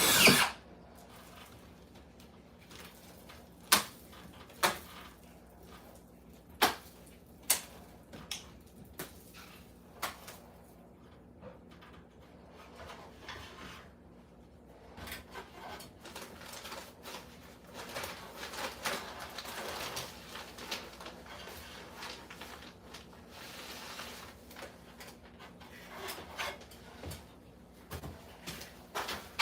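Irregular work noises: a handful of sharp knocks and clicks over the first ten seconds or so, then a longer stretch of uneven scraping or rubbing, over a faint steady hum.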